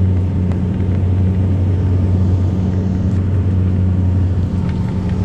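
Steady drone of a turboprop airliner's propellers and engines heard inside the cabin: a deep, even hum with a second tone above it. A faint thin whine joins in near the end.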